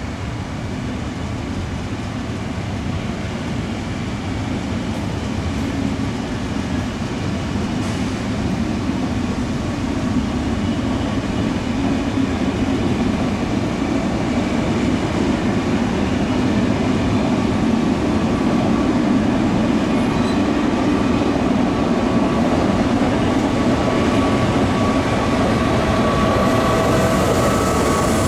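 Train running at a railway platform, its rumble growing steadily louder, with a faint steady whine above it.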